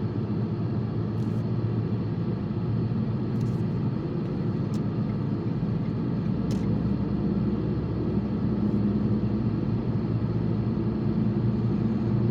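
Steady road and engine noise of a car heard from inside the cabin while driving, a low, even hum.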